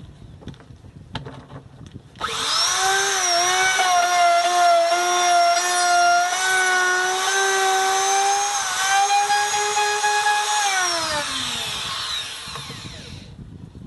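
Electric wood router motor switched on about two seconds in, running with a loud, steady high whine, then switched off and winding down with a falling pitch near the end.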